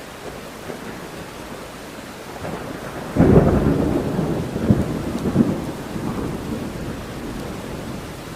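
Steady rain with a thunderclap about three seconds in: a sudden loud crack that rolls on as rumbling, with a couple more cracks, and fades over the following seconds.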